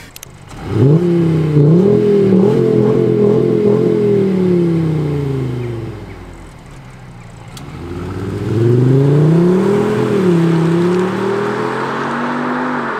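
Mercedes-Benz E200 Cabrio accelerating hard twice, its exhaust note boosted by an aftermarket Active Sound actuator on the 'dynamic' sound profile. Each time the pitch climbs in steps through the gear changes, then falls away as the car lifts off.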